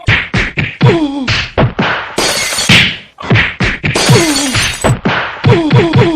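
Cartoon slapstick fight sound effect: a rapid run of whacks and thuds, several with short falling tones after them, and longer crashing noises about two and four seconds in.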